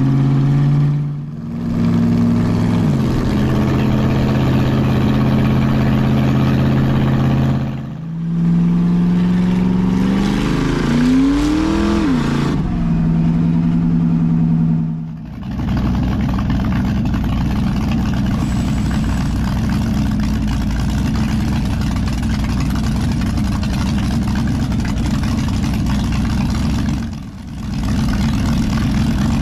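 Vehicle engines in a series of short, abruptly cut clips: steady engine hums, one rev that rises and falls partway through, then a rougher, deeper engine rumble held steady to the end.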